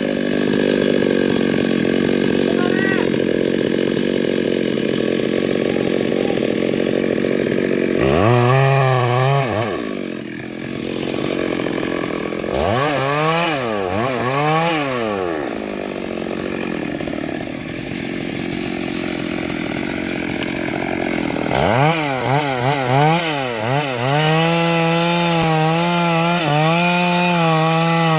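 Stihl MS382 two-stroke chainsaw cutting into a large sengon trunk. The engine runs steadily under load, revs up and down in swoops about 8, 13 and 22 seconds in, then holds a steady high pitch near the end.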